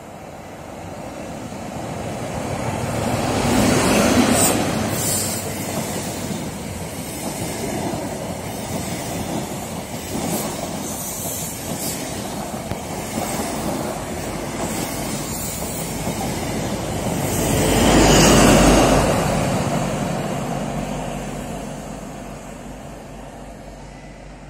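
Midland Pullman HST passing: the leading Class 43 power car's diesel engine peaks about four seconds in, then come the steady rolling noise of the coaches on the rails and a second peak around eighteen seconds as the rear power car passes, before the sound fades away.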